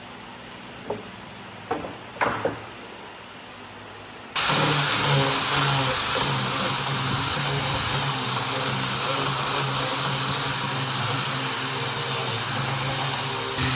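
A few light knocks, then about four seconds in a power tool's motor starts abruptly and runs steadily with a hum and a dense hiss.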